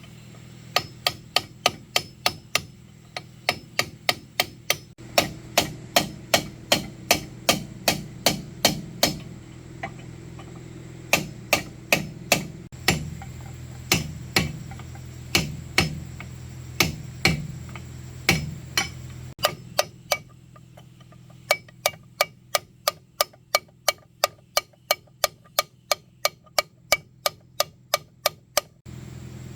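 Hammer blows struck in quick runs, about two to three a second, with short pauses between the runs, over a steady low hum.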